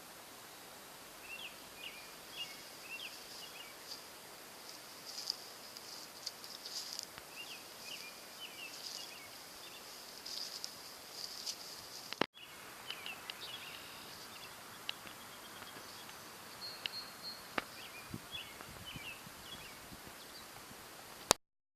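Outdoor nature ambience: small birds singing short chirping phrases over a steady high insect drone. The sound cuts out with a click a little past halfway, then resumes, and there is a sharp click just before the end.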